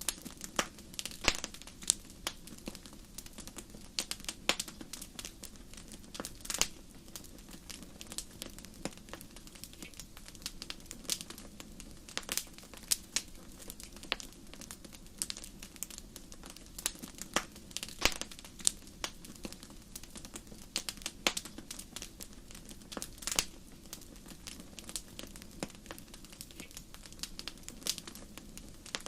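Fire in a fireplace crackling: irregular sharp pops and snaps, sometimes several close together, over a steady low rumble of the flames.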